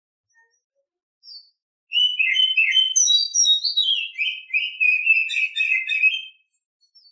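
Female Oriental magpie-robin (kacer) singing in breeding condition: after a faint note, one phrase of about four and a half seconds of varied clear whistles and quick chirps, starting high and running into faster, lower twittering near the end.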